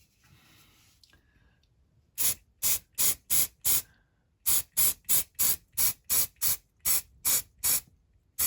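Spray paint can being fired in short, quick bursts of hiss, about two to three a second, laying a thin first coat on a small diecast van body. The bursts begin about two seconds in and pause briefly near the middle.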